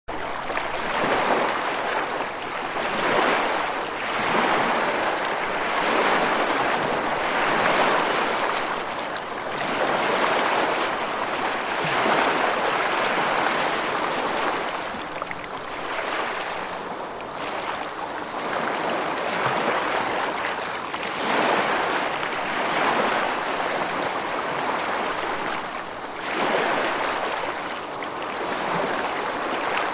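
Steady rushing water, an even hiss that swells and eases every two seconds or so.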